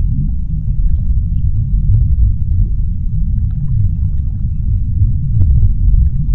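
Deep underwater ambience: a steady low rumble with faint scattered clicks and pops above it.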